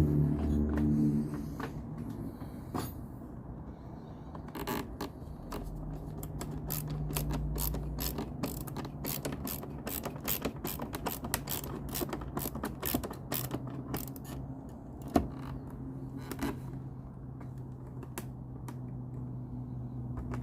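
Screws being turned with a hand tool: runs of rapid clicking, thickest through the middle, over a steady low hum.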